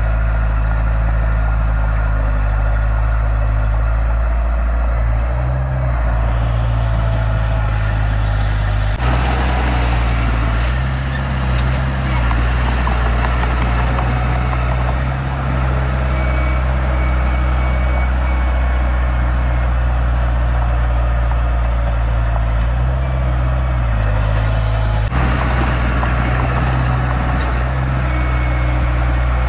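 Heavy diesel engine of earthmoving machinery running steadily with a deep rumble, its sound shifting abruptly about nine seconds in and again near twenty-five seconds.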